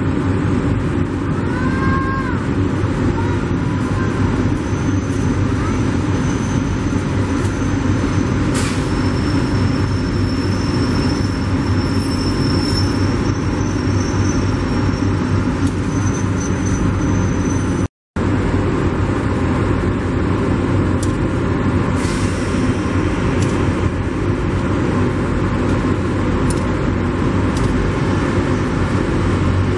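Passenger train passing close by: a steady, loud rumble and rattle of the running train, which breaks off for a moment about eighteen seconds in.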